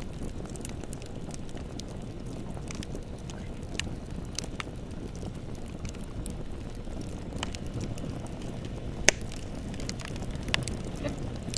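Bonfire burning: a steady low rumble of flames with scattered crackles and pops, the loudest pop about nine seconds in.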